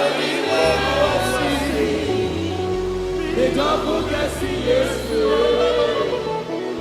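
Gospel choir singing over sustained bass accompaniment.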